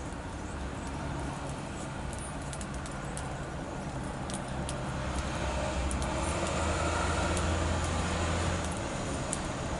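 Low, steady rumble of a passing motor vehicle, growing louder to its peak about seven to eight seconds in, then dropping away. Faint short high ticks come through over it.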